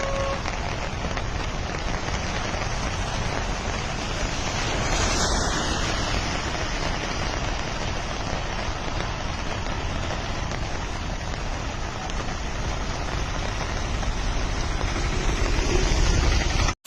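Heavy rain pouring steadily: a dense, even hiss with no break.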